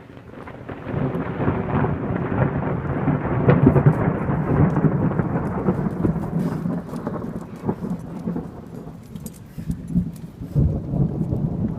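Long rolling rumble of thunder with rain falling. The rumble builds about a second in, is loudest a few seconds later and then fades, swelling again near the end, with scattered sharp ticks.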